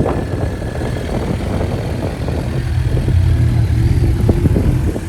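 A vehicle's engine rumbling as it drives slowly past, getting louder about three seconds in.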